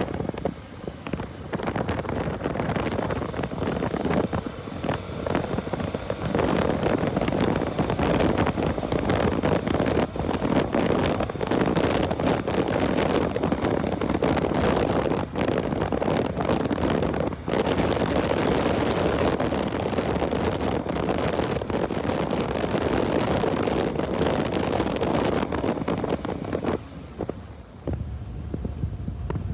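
Wind rushing and buffeting over the microphone of a moving motorcycle, with road noise under it; it eases near the end.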